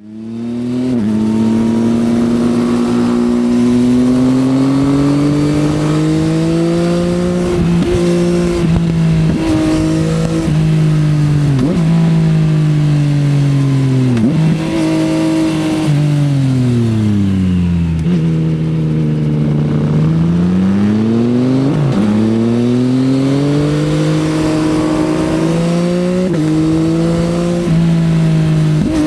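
Yamaha XSR900's three-cylinder CP3 engine through an Akrapovič exhaust, ridden hard: engine pitch climbs under throttle, drops sharply at gear changes several times, falls away on a long deceleration past the middle, then climbs again. Wind noise runs under it throughout.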